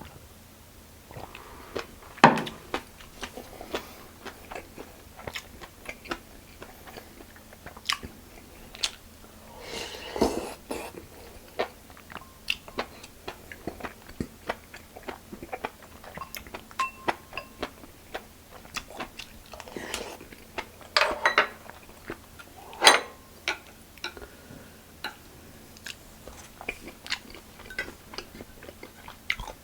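Close-up chewing and biting of food, with many short wet mouth clicks and a few louder crunches.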